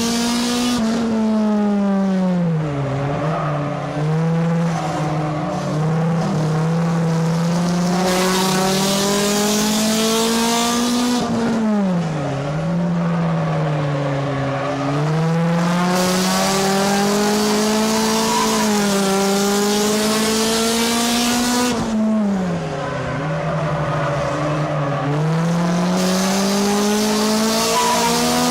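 Race car engine heard from inside the car at speed on a short oval: the pitch drops sharply as the driver lifts for a turn, then climbs steadily as he accelerates down the straight. This repeats about every ten and a half seconds, three times, once per lap.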